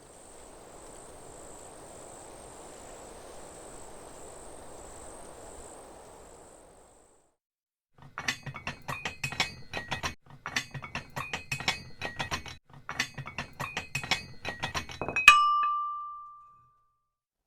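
A high, pulsing insect chirring over a soft hiss fades out. About a second later come three runs of rapid small clicks and clinks, and they end in one loud metallic strike whose clear tone rings on and dies away.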